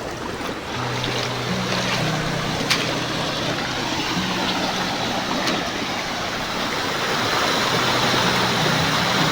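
Waterfall rushing, a steady loud roar of falling water. Low sustained tones shift in pitch underneath, and there are two faint clicks partway through.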